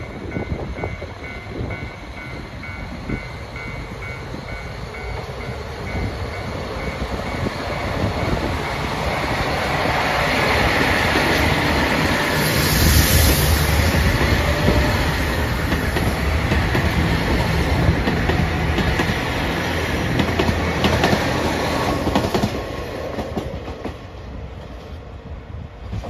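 JR Hokkaido KiHa 261 series diesel train running past close by: engine noise and wheels clacking over the rails. It grows louder as it nears, is loudest about halfway through, and fades near the end.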